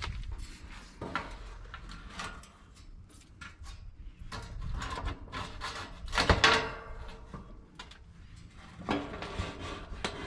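Irregular knocks, scrapes and rattles of parts of an AC unit being worked loose and handled during disassembly, with a louder clatter about six seconds in.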